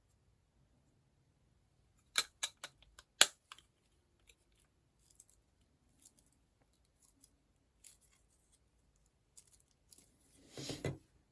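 Plastic building-block pieces being handled and pressed together, with a cluster of sharp clicks about two seconds in and scattered lighter clicks after. A brief rustle near the end.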